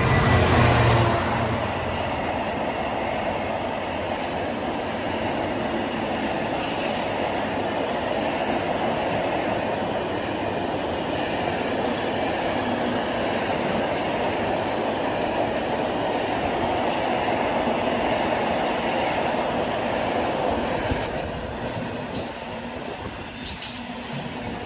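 A train passing at speed: the loudest moment comes as the front goes by about a second in, then a steady rush of wheels on rail for about twenty seconds. It eases off near the end, with a few clicks of wheels over rail joints.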